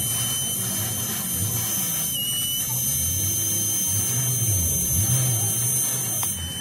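A power tool running with a steady high-pitched whine, which dips briefly about two seconds in as if loaded, over a low rumble.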